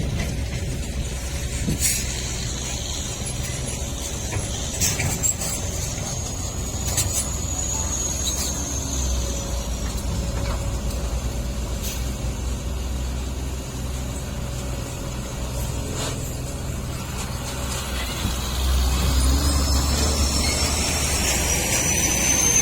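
Heavy diesel truck engine running steadily, with scattered clanks and a high squeal that rises and falls. The engine grows louder about three-quarters of the way through.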